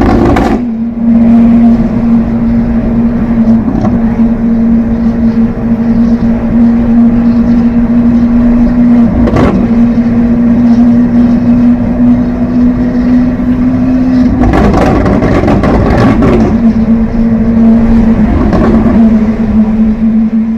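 Lamborghini Aventador SV's 6.5-litre V12 with Capristo exhaust idling with a steady drone and deep rumble. There is a single sharp crack about nine seconds in, and a couple of seconds of louder rushing noise around fifteen seconds in.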